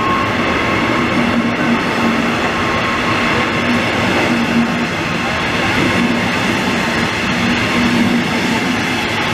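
Israel Railways double-deck passenger coaches running past along a station platform: a steady, loud rush of wheels on rails, with a faint low hum that comes and goes.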